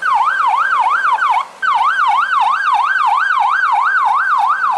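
Police car siren in a fast yelp, its pitch sweeping up and down about three times a second, with a brief break about a second and a half in.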